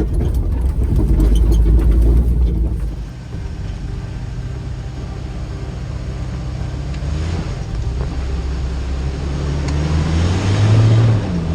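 Jeep Wrangler TJ driving: a heavy low rumble with rattles for the first three seconds, then a steadier engine hum whose note swells and rises near the end.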